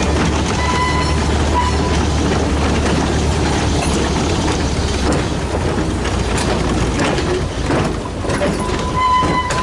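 Model train running on its track, a continuous mechanical clatter with scattered small clicks.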